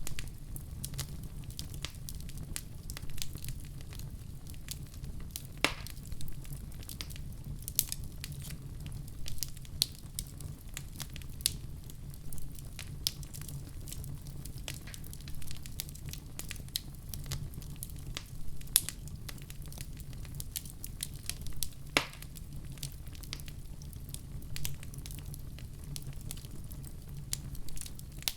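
Wood fire burning with a steady low rumble and frequent small crackles, with a few louder pops and snaps.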